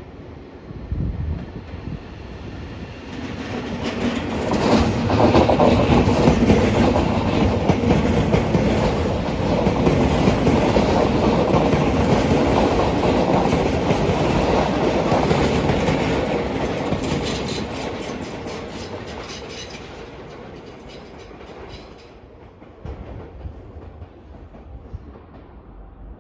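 Tobu Railway electric train going past on the track. Its sound builds over a few seconds and stays loud for about ten seconds, with wheels clacking over rail joints, then fades away.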